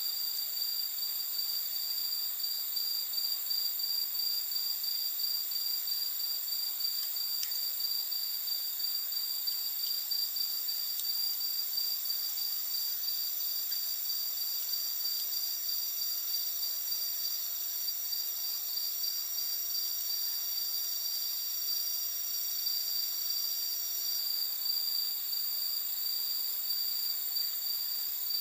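Chorus of night insects trilling steadily at several high pitches, one with a fast pulsing trill, and a higher tone joining for about twelve seconds in the middle. A few faint crackles from the campfire.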